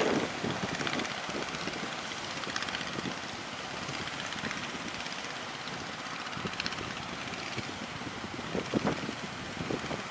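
Steady rush of strong wind and sea waves, with gusts buffeting the microphone near the start and about nine seconds in.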